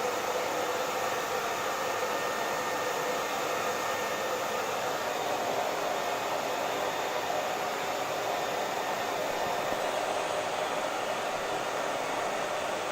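Hair dryer running steadily, an even rushing of blown air with a faint motor hum.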